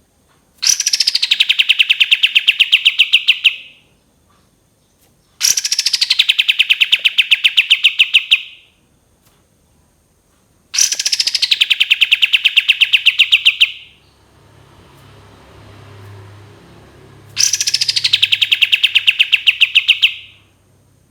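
Kapas tembak bulbul song repeated four times: each loud phrase opens with a falling note and runs into a fast, even trill of about seven notes a second, lasting about three seconds. A faint hiss and low hum come between the third and fourth phrases.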